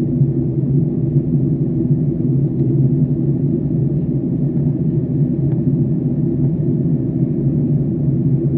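Steady, unbroken drone inside a jet airliner's cabin in flight: engine and airflow noise with a low hum.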